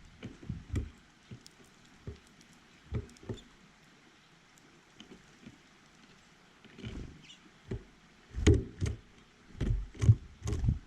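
Irregular knocks and thumps close to the microphone, a few scattered at first and then a quick cluster of the loudest ones near the end.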